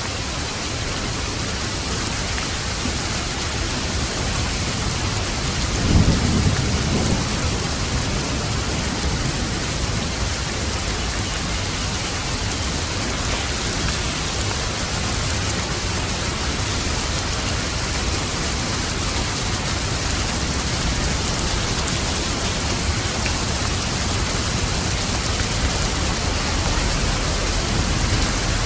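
Steady heavy rain falling, with a short low rumble of thunder about six seconds in.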